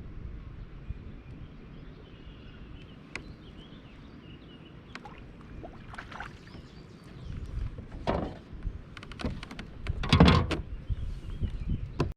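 Kayak on the water: a steady low rumble of wind on the microphone, then from about halfway a run of irregular knocks and splashy handling noises against the hull, loudest about ten seconds in.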